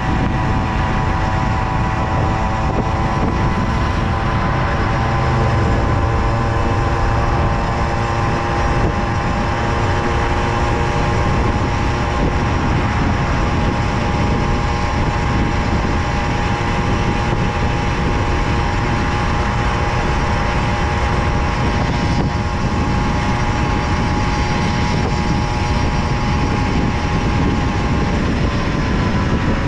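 Tomos Silver Bullet moped's single-cylinder two-stroke engine running at a steady cruising speed, over a heavy rush of wind noise. The engine note drops slightly near the end as it eases off.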